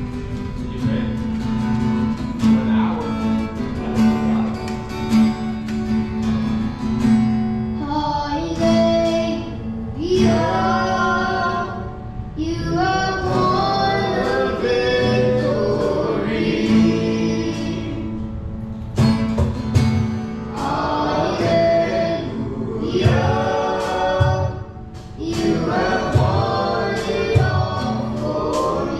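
Worship song: a group of voices singing together over guitar accompaniment, sung phrases coming in waves above a steady instrumental backing.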